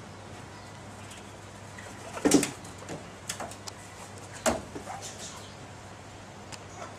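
Australian magpie giving a few short, harsh calls, the loudest about two seconds in.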